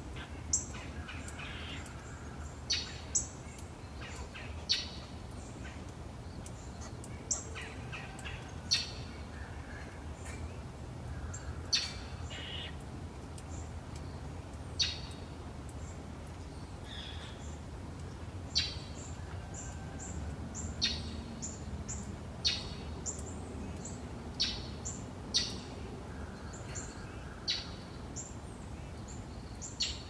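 Birds chirping: short, sharp calls every second or two, some in quick pairs, over a low steady background rumble.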